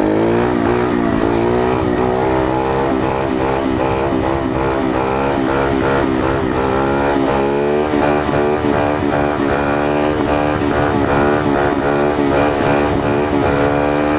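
Coolster 125 pit bike's single-cylinder four-stroke engine pulling hard in second gear during a wheelie. The revs climb in the first second, then hold fairly steady, with the throttle worked in small regular wavers about twice a second through the second half to keep the front wheel up.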